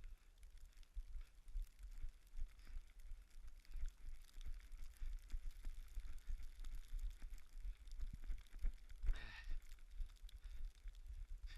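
Dense, irregular low thumps of wind buffeting and running footfalls on a body-worn action camera's microphone, with a short breathy vocal sound about nine seconds in.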